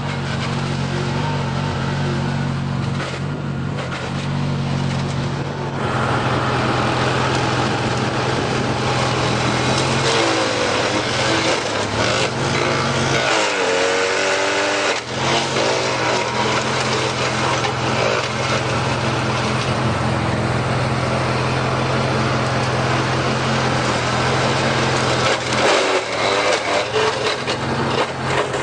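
Old lawn tractor engine running under heavy load as its mower deck chews into a small tree, with cracking and splintering wood from about six seconds in. Around halfway the engine bogs and its pitch sags before it picks up again; the tree is about the limit of what the mower can handle.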